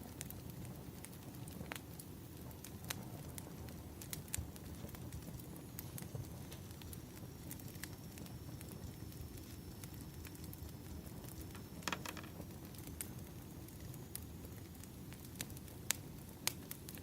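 Wood fire crackling: irregular sharp pops and snaps over a low steady rumble, with a denser cluster of crackles about twelve seconds in.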